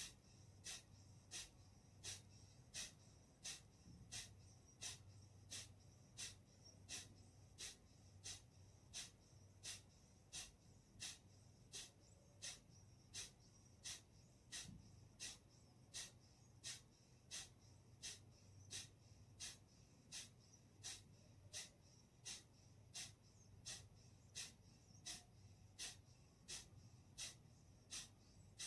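Kapalbhati breathing: short, forceful exhalations through the nose, about one and a half a second in a steady rhythm, with a faint low hum underneath.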